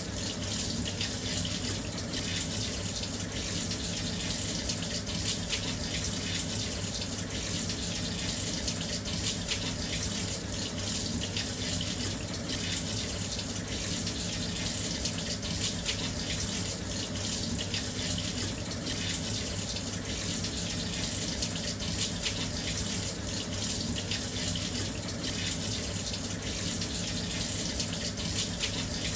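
Washing machine filling with water: a steady, even rush of water flowing into the drum.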